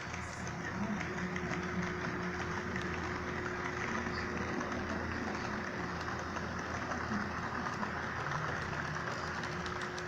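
Fleischmann BR 41 model locomotive running on track: a steady electric-motor hum and rolling noise, with a thin steady whine coming in about a second in.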